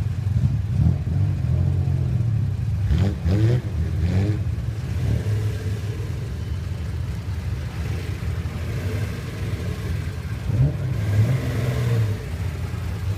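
Classic Nissan car with a loud aftermarket muffler idling with a deep, steady rumble, revved in a quick series of throttle blips about three seconds in and again briefly about ten and a half seconds in.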